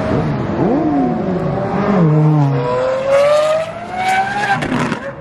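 Vehicle engines accelerating past on the road: an engine passes with a falling pitch, then another revs up, its pitch climbing steadily for about two seconds before cutting off suddenly near the end.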